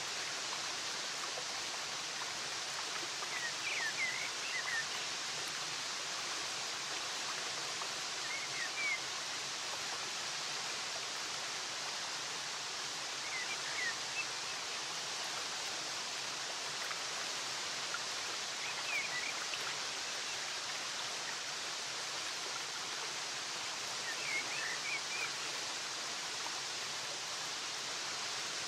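Flowing water rushing steadily, with short bursts of small-bird chirping recurring about every five seconds.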